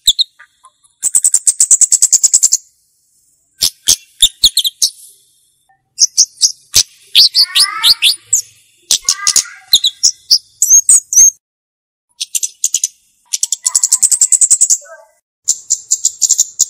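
A flowerpecker (cabe-cabean) singing: repeated bursts of rapid, very high-pitched ticking trills about a second long, mixed with sharp chirps and a short run of falling notes near the middle.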